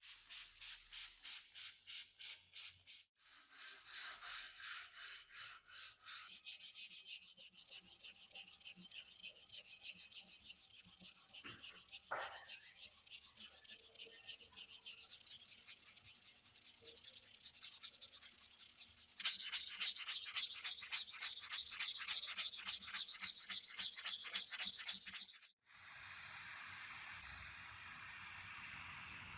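Rapid back-and-forth abrasive rubbing strokes, several a second, as rust is worked off an antique metal tool part by hand. The strokes get louder and quicker about two-thirds through. Near the end it cuts abruptly to a steady hiss.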